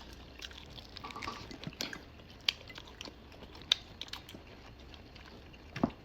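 A person chewing food, with a few sharp clicks scattered through, the loudest about two and a half seconds in, near four seconds in, and just before the end.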